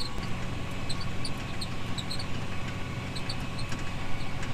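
A heavy farm vehicle's engine running steadily with a low hum, with faint short high squeaks scattered through.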